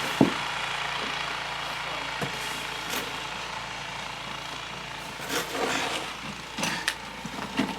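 Small gas snowblower engine running steadily, with a few short knocks and scrapes, more of them in the second half.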